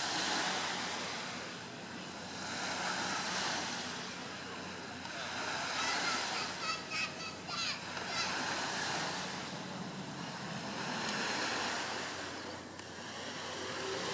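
Airbus A350-900's twin Rolls-Royce Trent XWB turbofans heard in a flypast: a broad rushing noise that swells and fades several times, with a brief crackle about two-thirds of the way through.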